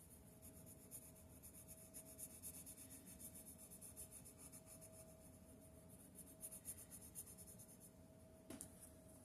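Faint, rapid scratching of a drawing tool on paper as small marks are sketched, with a steady faint hum underneath and a small click near the end.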